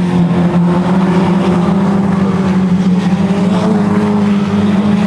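Race car engine running hard at high revs, its pitch holding nearly steady with small shifts.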